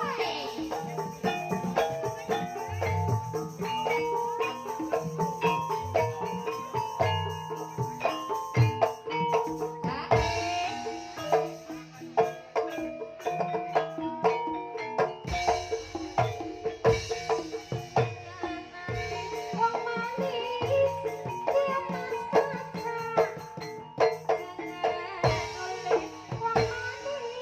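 Javanese Banyumasan ensemble music: interlocking struck, pitched mallet-percussion notes over steady hand-drum strokes, playing continuously.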